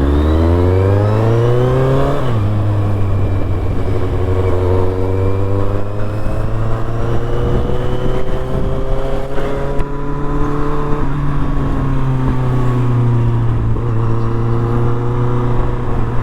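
Kawasaki Z800's inline-four engine on the move: revs climb for about two seconds, drop sharply at a gear change, then rise slowly for several seconds before easing back about eleven seconds in and holding steady.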